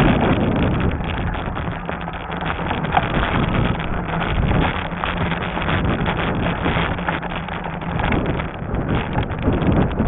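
Wind buffeting the microphone while riding a Lectric XP fat-tire e-bike on a trail, a steady rumbling rush that rises and falls, mixed with the noise of the fat tyres rolling over the trail.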